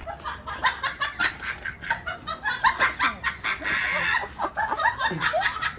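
Chickens clucking: a rapid, irregular run of many short calls.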